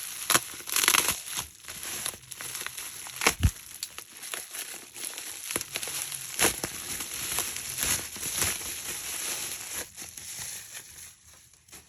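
Wrapping being crinkled and pulled off a heavy package by hand, a steady crackle of rustling with scattered clicks, and one low knock about three and a half seconds in.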